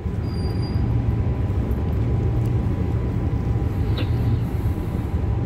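Steady low rumble of a Transperth B-series electric multiple unit running, heard from inside the carriage, with a faint steady tone over it and a brief click about four seconds in.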